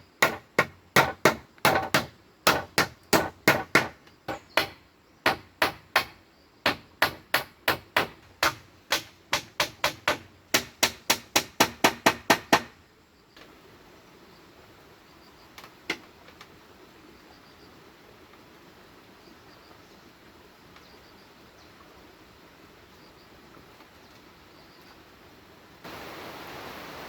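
Repeated hard tool strikes on bamboo, about two to three a second and quickening toward the end of the run, stopping about halfway through. Then a faint steady hiss with a single knock, the hiss growing louder near the end.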